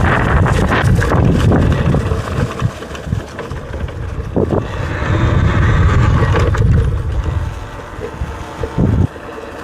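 Wind buffeting the microphone of a rider on a moving electric dirt bike: a loud, rough low rumble that eases after about seven seconds, with a few short knocks.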